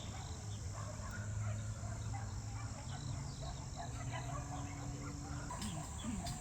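Outdoor ambience: many short, scattered chirps over a steady low hum, with a faint steady high tone.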